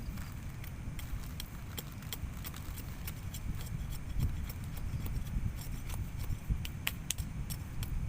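Rain: scattered sharp drop ticks close by over a steady low rumble.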